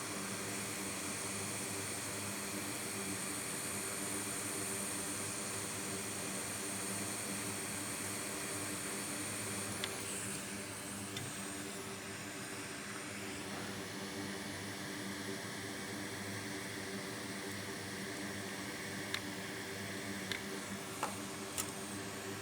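Steady fan whir with a low electrical hum from repair-bench equipment, a faint high whine fading out about ten seconds in. A few light clicks near the end.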